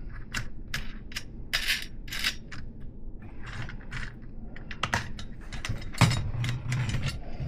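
Irregular metallic clicks and short scrapes as a threaded 3/8-inch solid axle is turned and pushed through a BMX front hub.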